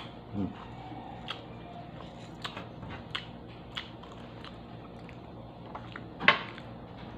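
A person chewing and biting food close to the microphone, eaten by hand, most likely roast chicken, with small crunches and clicks about once a second. One louder, sharp crunch or knock comes about six seconds in.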